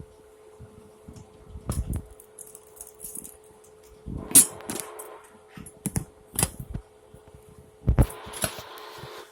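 Irregular knocks, clicks and rustling, as of things being handled, over a steady low hum.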